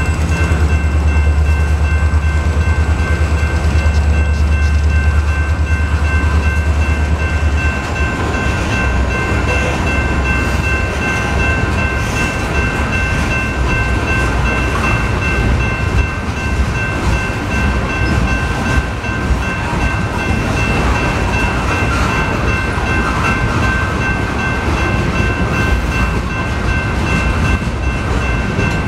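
Covered hopper cars of a freight train rolling past at a grade crossing, wheels clattering over the rails. A steady ringing of the crossing's warning bell runs over it. A deep rumble is strong at first and eases about eight seconds in.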